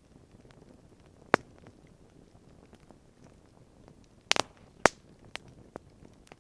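Wood campfire crackling, with a sharp pop about a second in, a loud cluster of pops past the four-second mark, and a few smaller snaps after.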